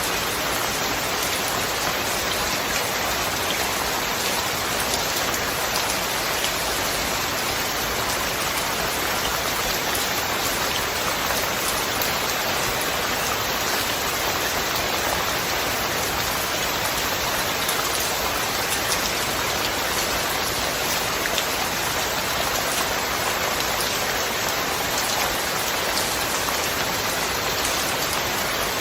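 Steady rain falling, an even dense hiss of many drops with fine scattered patter on a surface, without thunder.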